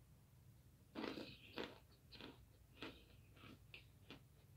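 A person biting into and chewing hard, oven-baked starch chunks. A run of about eight sharp, irregular crunches starts about a second in, the first ones loudest.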